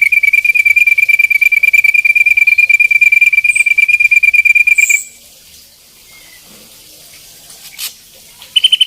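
Ashy drongo giving its rapid 'tembakan' call: a loud, fast, even trill of one repeated note, about ten a second, that stops abruptly about five seconds in. After a quiet pause a higher-pitched trill starts near the end.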